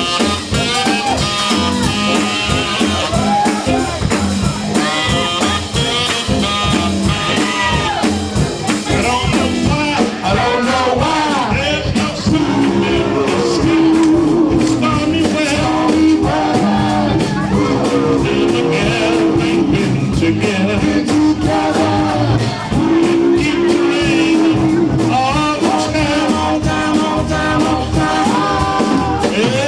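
Doo-wop vocal group singing live with a backing band, the lead voice over group harmonies, with a long held note in the middle. It comes through an out-of-calibration sound system that distorts the voices.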